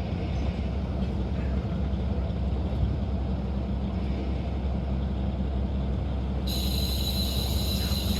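KiHa 40 diesel railcar running, a steady low engine and rail drone heard from inside the car. About six and a half seconds in, a high steady squeal sets in and cuts off abruptly near the end.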